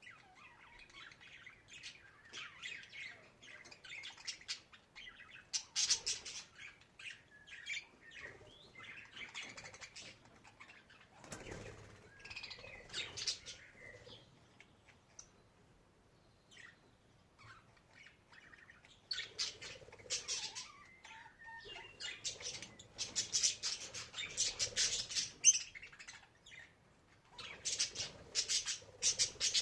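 Budgerigar chirping and warbling in irregular bursts, with a lull about halfway through, then livelier chatter.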